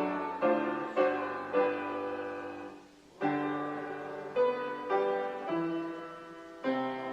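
Piano playing a hymn in slow block chords, each chord struck and left to ring, with a short break between phrases about three seconds in.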